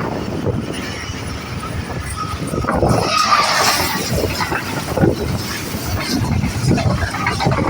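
Wind buffeting the microphone over a steady low rumble from a train, with a noisier swell about three seconds in.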